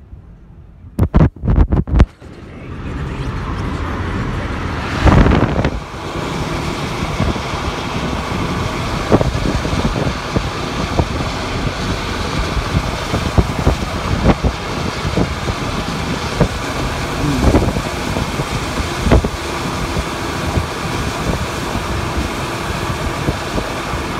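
A few sharp bangs about a second in, then a loud steady rushing noise with scattered knocks.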